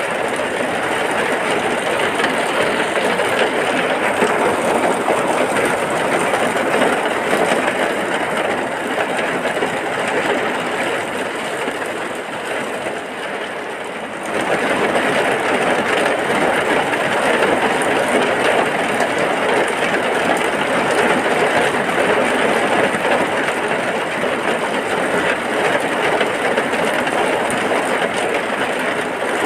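Heavy rain falling steadily as a dense hiss. It eases slightly for a few seconds near the middle, then comes back at full strength abruptly.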